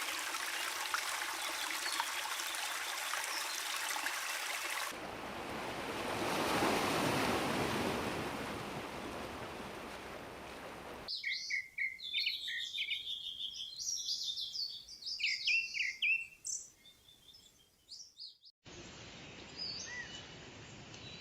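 Small songbirds chirping and twittering in quick, high, repeated notes, in two recordings spliced together. A steady rushing noise, like rain or running water, fills the first half before the birdsong begins.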